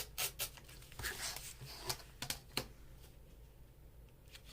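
Paper and a ruler being handled: a few short rustles and light taps in the first two and a half seconds, then quiet, as a piece of paper is ripped off against the ruler's edge.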